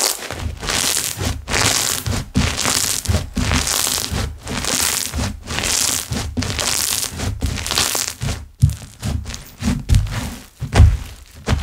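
Slime being squished and worked by hand, its trapped air bubbles crackling and popping in repeated bursts about once a second, then a few sharper popping slaps near the end.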